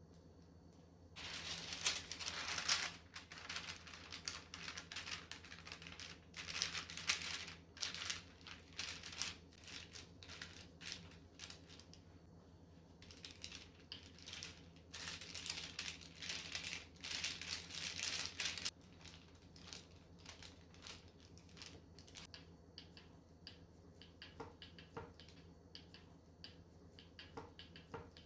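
Kitchen handling noises: repeated bursts of scraping and crinkling with quick light clicks, busiest in the first two-thirds, then thinning to scattered ticks, over a steady low hum.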